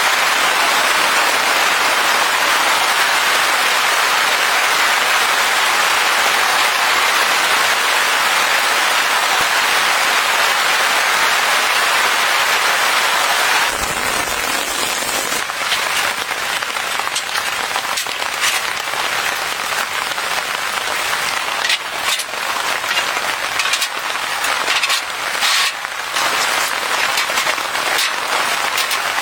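Rain: a steady, dense hiss of heavy rainfall. About fourteen seconds in it changes abruptly to lighter rain, with many separate drops tapping sharply on a surface.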